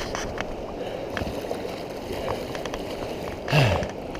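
Fast-running river water rushing around a kayak, with light paddle splashes and knocks on the hull. About three and a half seconds in comes a short, louder sound that falls in pitch.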